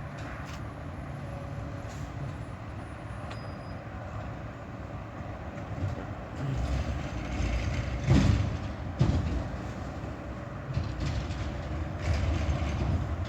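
Peterbilt 520 garbage truck with a McNeilus ZR side-loader body running with a steady low rumble that grows louder about six seconds in. Two sudden loud sounds come about a second apart, and it swells again near the end.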